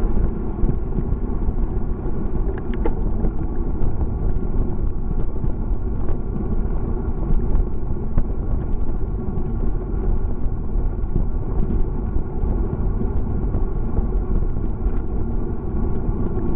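Steady road rumble of a bicycle being ridden on pavement, with a constant hum and many small ticks and rattles.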